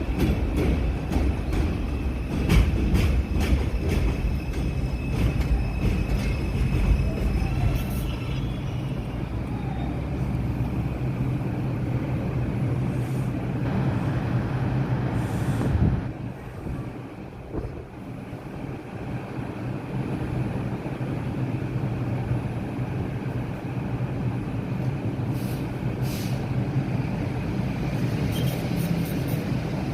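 New York City subway train running on the line, a steady low rumble with a quick run of wheel clicks over the rail joints in the first several seconds. The level drops sharply about 16 seconds in, then the running noise carries on.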